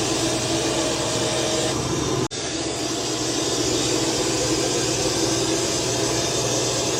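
Robot vacuum-mop running steadily as it cleans the floor, an even whirring hum from its suction fan and rotating mop. The recording cuts briefly about two seconds in and the same steady running goes on.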